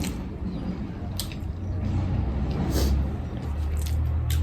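Close-up eating sounds: chewing with a few sharp mouth clicks, over a steady low rumble.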